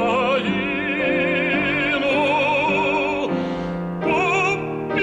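Operatic tenor singing a slow Ukrainian art song in long held notes with wide vibrato, over a sustained instrumental accompaniment.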